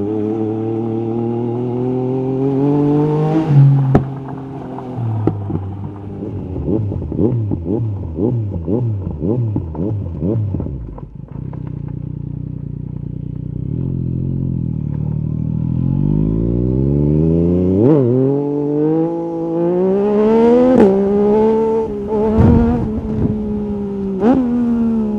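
Yamaha MT-09 SP three-cylinder engine through an Akrapovic carbon racing exhaust, revving up through the gears. There is a sharp crack near 4 s, then a stretch of quickly rising and falling revs, then low revs. It then pulls away again with three short cuts at the gear changes.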